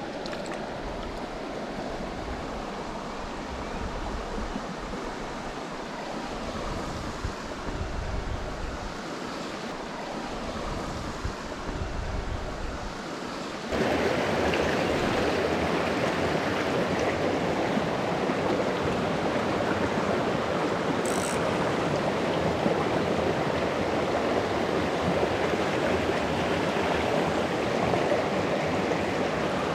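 Small mountain creek running, a steady rushing of water, with intermittent low rumbles in the first half. About halfway in the water suddenly becomes louder and closer.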